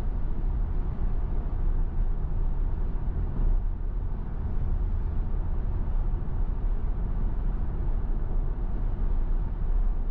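Steady road and tyre noise inside a Tesla Model Y's cabin at highway speed on a rain-wet road, a low even rumble with no engine note.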